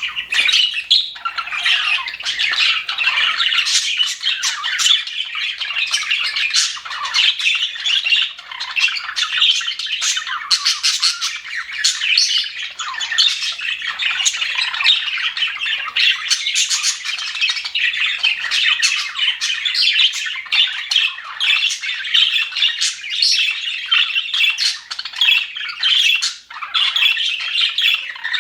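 Flock of budgerigars chattering without pause, many short chirps and warbles overlapping.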